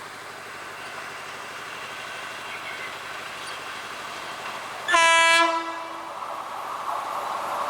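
Train horn sounds one short, loud blast about five seconds in. Then the rumble of an approaching train builds steadily louder.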